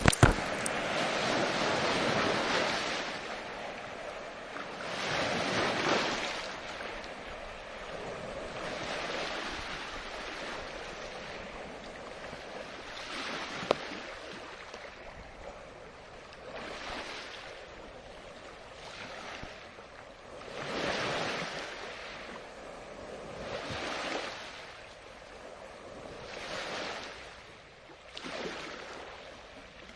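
Ocean waves breaking and washing up the shore, each wash swelling and fading every three to four seconds, the first few seconds the loudest. A brief loud knock at the very start and a small click about fourteen seconds in.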